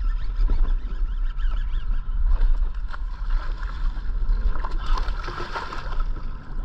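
Wind rumbling on the microphone on the open water, with scattered light knocks.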